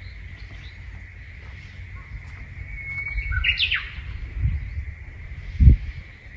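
A bird calls once about three seconds in: a short held whistle that breaks into a few quick, higher notes. Low rumbling noise runs underneath, and a dull thump comes near the end.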